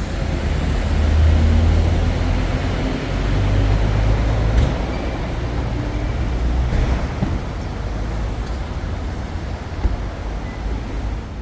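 A vehicle running with a steady, heavy low rumble and noise.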